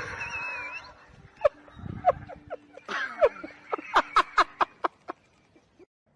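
An animal's calls: a run of short, sharp cries that fall in pitch, coming thicker and faster about three to five seconds in, then stopping.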